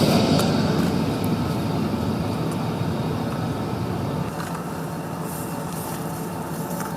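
F-35B Lightning II jet engine noise, a broad rumble fading steadily as the aircraft draws away, its high whine dying out at the start.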